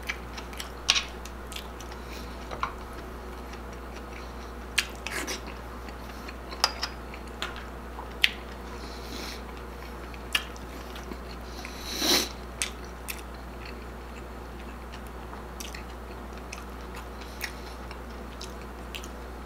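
Close-up chewing and biting of crispy deep-fried pork intestine (chicharon bulaklak) and rice, with scattered sharp crunches and wet mouth sounds, the loudest about twelve seconds in, over a steady low hum.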